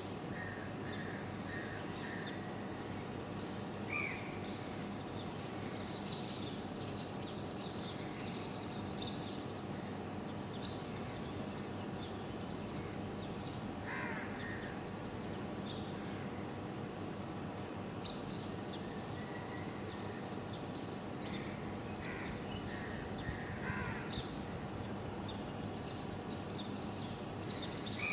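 Short bird calls scattered over the whole stretch, a few of them a little louder, over a steady background hiss.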